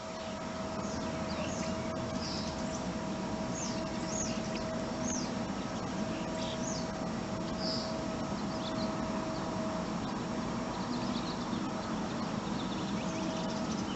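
Birds chirping now and then: short, high calls scattered over a steady background hum.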